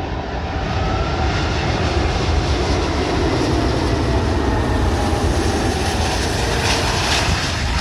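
Airbus A380 on final approach passing low and close: its four jet engines give a loud, steady jet noise with a deep rumble and a faint whine over it.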